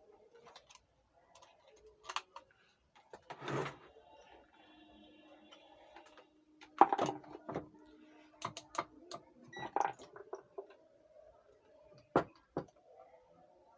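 Scattered light clicks and taps of multimeter probes and a small desoldered resistor being handled on a workbench while the resistor is tested. A few sharper clicks stand out, the loudest a little past halfway.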